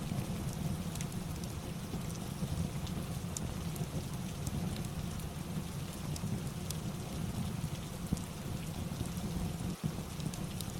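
Steady rain ambience with a low rumble, overlaid with scattered sharp crackles and pops from a wood fire in a fireplace.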